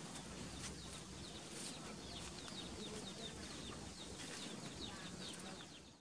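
Bird chirps outdoors: a quick series of short, falling chirps over a low steady hum, cutting off suddenly at the end.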